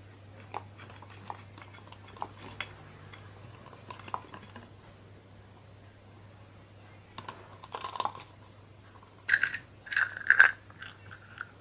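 Spanner and nuts on a ceiling fan's metal body as the nuts are fitted and tightened: scattered light metal clicks, then louder clinks and metal scraping with a ringing tone in the last few seconds.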